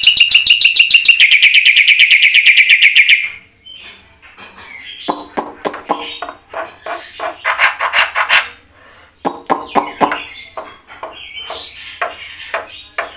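Black-winged myna (jalak putih) singing. It opens with a loud, fast trill of evenly repeated notes for about three seconds, then after a short pause breaks into a varied run of harsh chatter, squawks and clicking notes.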